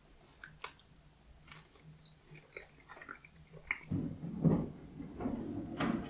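A man chewing a mouthful of soya-and-wheat-protein sausage with ketchup. Small wet mouth clicks come first, then louder chewing from about four seconds in.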